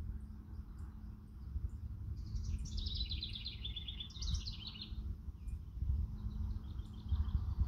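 A songbird singing a fast, chattering run of high notes for about three seconds, then a fainter second phrase near the end, over a low, steady rumble of wind on the microphone.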